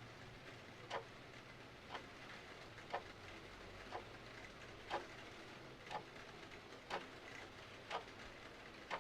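Clock ticking once a second over a steady hiss of rain.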